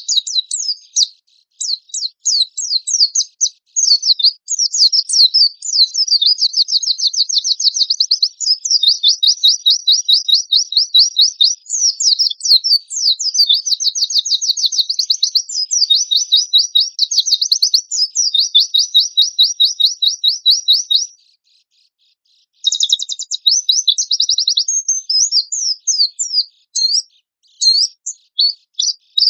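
White-eye (pleci) songbird singing in rapid, harsh high-pitched trills and chattering bursts of fast repeated notes. The song breaks off for about a second and a half near two-thirds of the way through, then resumes.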